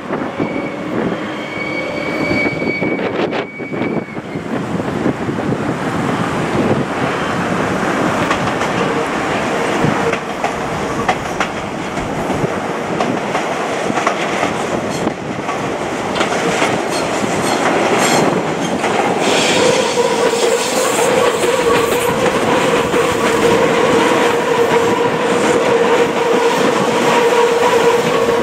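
Meitetsu electric train running past, its wheels clicking over the rail joints with a loud, steady rumble that builds slowly. About twenty seconds in, a steady high tone joins the rumble.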